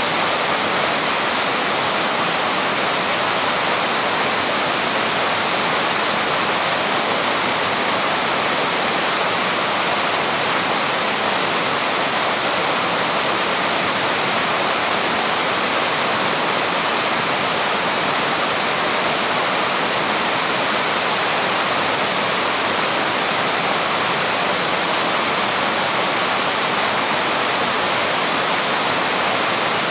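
Small waterfall rushing steadily, a constant hiss of falling water with no breaks.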